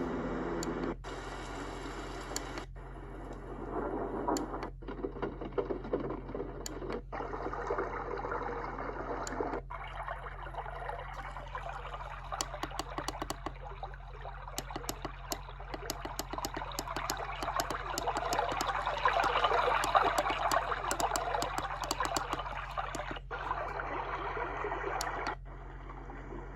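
Magicteam white noise sound machine playing through its small speaker, stepped from one built-in sound to the next every few seconds with a brief break at each change. Most of the sounds are steady noise, and one long stretch is full of rapid crackling clicks.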